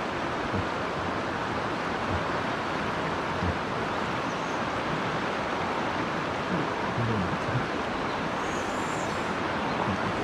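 Steady rushing of a mountain stream's flowing water, with a few faint soft knocks.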